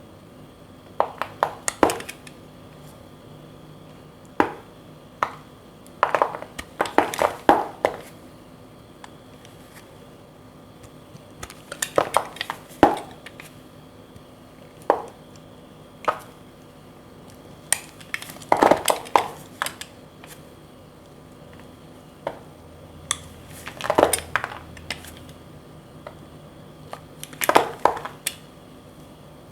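Blade cutting through dry bar soap into cubes: clusters of crisp crunching cracks, each a second or so long, coming every few seconds.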